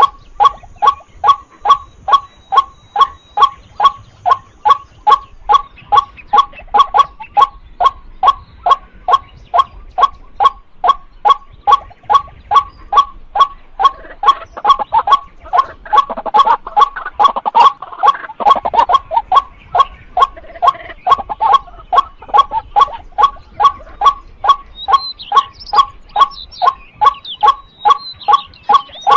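Female white-breasted waterhen calling a steady, monotonous series of short "kwak" notes, a little over two a second, without a break. For a few seconds around the middle the calling grows denser and rougher.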